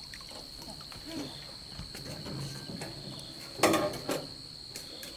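A steady high-pitched insect drone, typical of a cricket or cicada, with a few faint short calls. A sharp knock comes about three and a half seconds in, followed by a smaller one just after.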